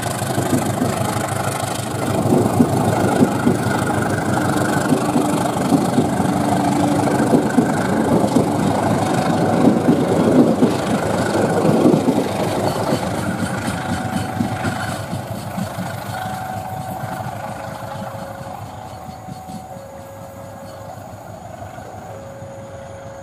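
Diesel locomotive and passenger coaches passing, the engine and the rumble of wheels on rail loudest in the first half, then fading as the train goes away. From a little past the middle, a level-crossing alarm sounds in two alternating tones, switching about once a second.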